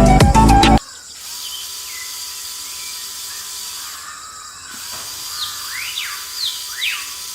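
Music cuts off about a second in. Then birds chirp several times, in quick rising and falling calls, over a steady background with a faint thin whine.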